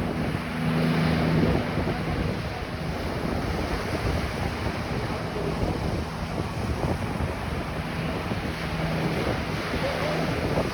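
Ocean surf washing on a beach, with wind buffeting the microphone. A low steady hum comes and goes over it.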